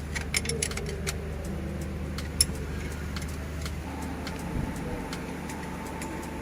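Toyota 2GR-FE 3.5-litre V6 engine running with a steady low hum and irregular sharp ticks, most of them in the first couple of seconds. The engine is being diagnosed for a knocking noise.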